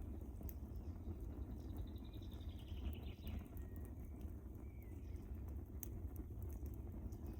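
Wood fire burning in a fireplace: a low steady rumble of flames with scattered sharp crackles and pops. A faint thin whistle falls in pitch about two to three seconds in.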